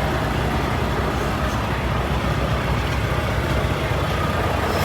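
Steady low hum of an idling semi-truck diesel engine, running evenly with no changes.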